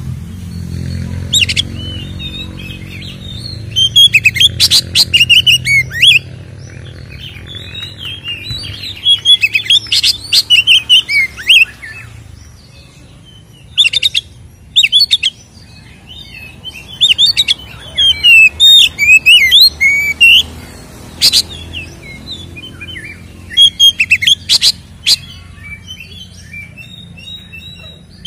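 Oriental magpie-robin singing a loud, fast song of varied whistled phrases that sweep up and down, delivered in bursts a second or few long with short pauses between. This is the bird's full fighting-style song.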